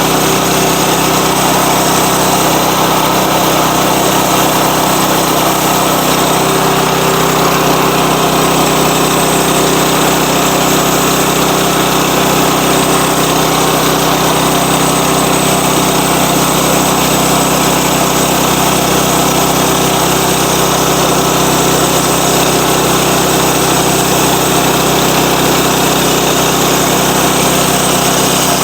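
Sawmill engine running steadily under load as the saw cuts along a log.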